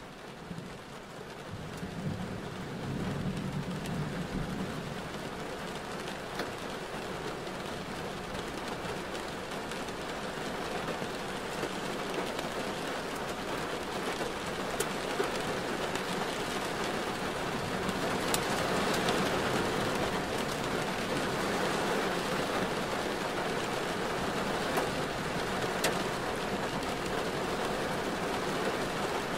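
Rain falling on a car, a steady hiss with scattered sharp ticks of drops striking, slowly growing louder. A low rumble sounds in the first few seconds.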